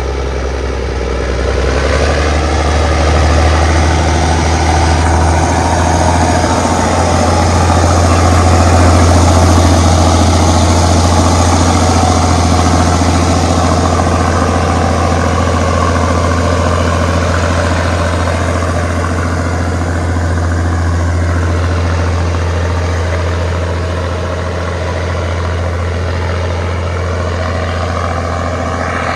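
Engine of an Allis-Chalmers HD-21 crawler dozer running steadily, growing slightly louder about eight to ten seconds in.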